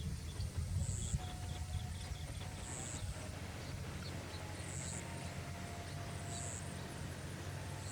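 Outdoor ambience: a steady low rumble with short high chirps repeating about every one and a half to two seconds, and faint thin whistled tones.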